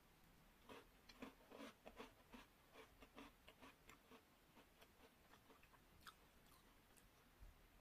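Close-up chewing of a chocolate-coated biscuit: a quick run of crisp crunching clicks over the first three seconds or so, thinning to sparser, softer clicks after that.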